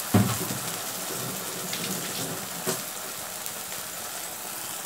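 Ground tomato chutney paste sizzling steadily in hot oil in a kadai. A knock right at the start, and a light tap a little past the middle.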